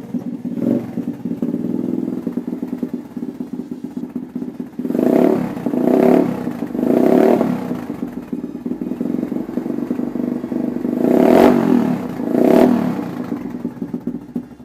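Small motorbike engine on its stock exhaust, running without choke just after a cold start, idling with a fast even putter. The throttle is blipped five times: three short revs about a second apart midway, and two more near the end.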